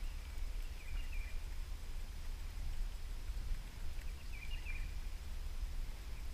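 A bird calling twice, a short warbling chirp phrase each time, about three and a half seconds apart, over a low steady rumble.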